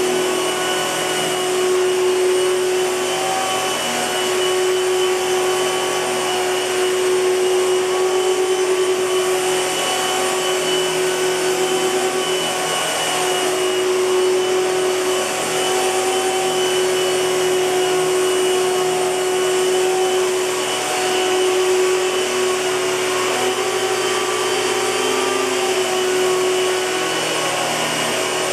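1998 Hoover Futura S3561 Power Team canister vacuum cleaner running steadily: a constant motor whine over a rush of air.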